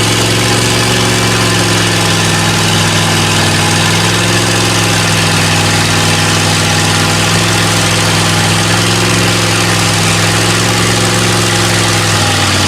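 A loud off-road truck engine running steadily at one held speed, with no revving.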